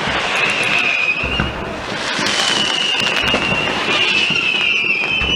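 Fireworks going off at a display: high, wavering whistles from whistling fireworks, one near the start and a longer one from about two seconds in, over a dense crackle of bursts.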